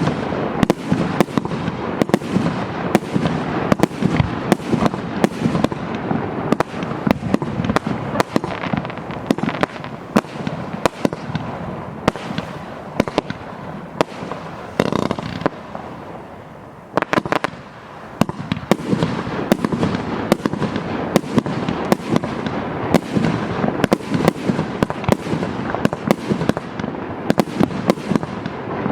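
Multi-shot fireworks battery firing: sharp bangs a few times a second over a steady hiss. About halfway in the firing eases off briefly, then a quick rattle of shots starts it up again.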